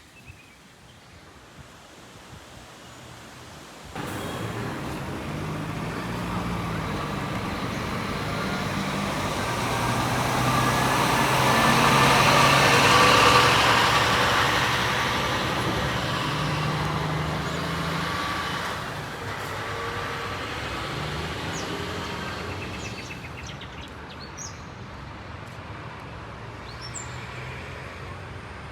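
Scania K360IB coach's diesel engine and tyres driving past: the engine and road noise grow louder to a peak about halfway through, then fade as it moves away. Before that, a few seconds of quiet traffic background end with a sudden cut.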